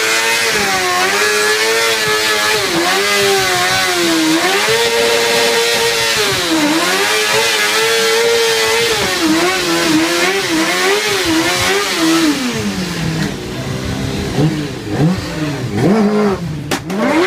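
Motorcycle engine revving hard, held at high revs with the pitch wavering up and down for about twelve seconds. It then drops and is blipped up and down several times.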